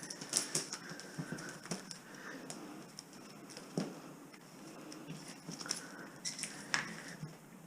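Scattered light clicks, taps and rustling, irregular and fairly quiet.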